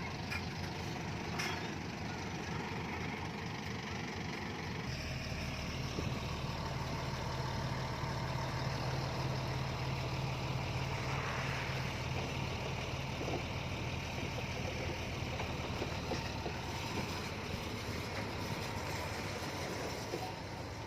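Heavy diesel engine of earthmoving machinery running steadily. It gets louder about five seconds in and eases off again near the end.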